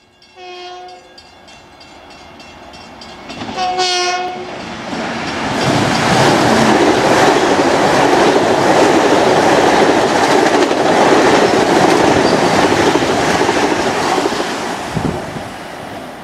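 Long Island Rail Road commuter train sounding two short horn blasts, the second a few seconds after the first. The train then passes loudly with a steady rush and wheel clatter that fades near the end.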